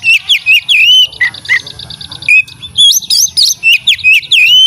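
Oriental magpie-robin (kacer) singing loudly: two phrases of quick whistled upslurs, downslurs and squeaky notes, with a short pause just under two seconds in.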